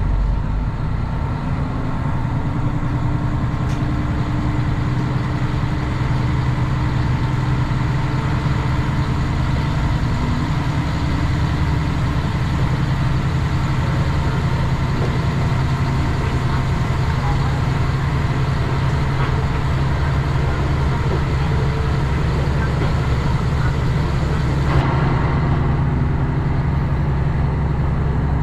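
A large vehicle's engine running steadily with a constant low hum. About 25 s in, the higher hiss over it drops slightly.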